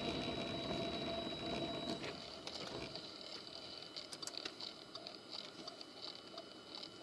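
Vehicle running, heard from inside, with a steady whine over road noise; about two seconds in it drops to a much quieter hum with faint irregular clicks.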